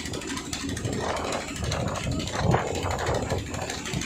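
Motor-driven wood saw machine running, its sound swelling and easing unevenly.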